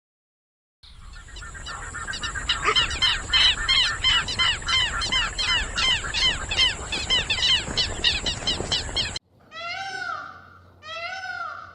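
Animal calls: a rapid run of short squawking calls, several a second, for about eight seconds over a steady hiss. This stops abruptly and is followed by three longer, drawn-out meow-like cries.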